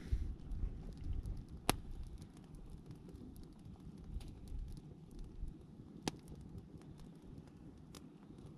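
Campfire crackling: scattered small ticks with a few sharp pops over a low rumble of wind on the microphone.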